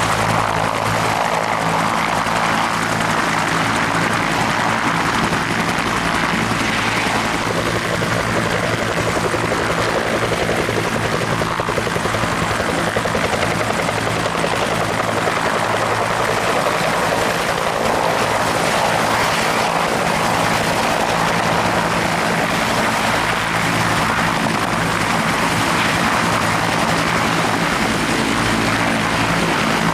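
Bell military helicopter running steadily, its turbine engine and two-bladed rotor making a continuous drone with steady low tones.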